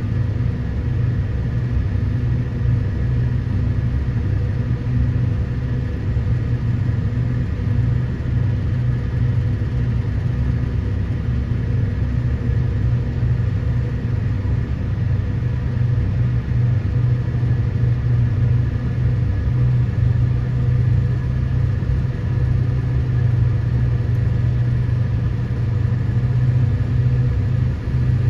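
Hitachi EX2500 mining excavator's diesel engine running steadily, a constant low drone with no breaks or changes in pitch.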